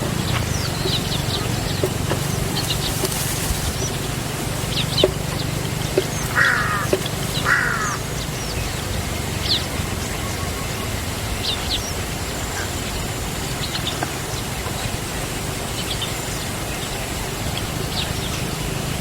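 Birds calling: scattered short high chirps, with two harsh, raspy calls about six and seven and a half seconds in, over a steady low hum.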